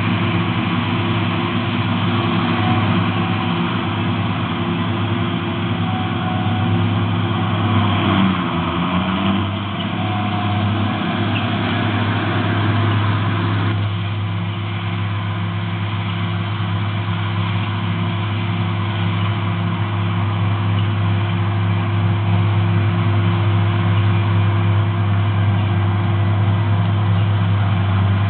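Heavy farm machinery engine running steadily. About halfway through, the higher-pitched part of the sound drops away abruptly while the low hum carries on.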